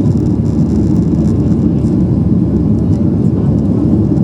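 Steady, loud low rumble inside the cabin of a Boeing 737-800: its CFM56 jet engines running and air rushing past the fuselage, heard from a seat by the wing.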